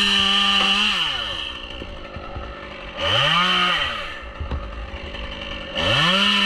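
Two-stroke chainsaw blipped to full throttle in three short bursts, each held about a second, dropping back to idle between them.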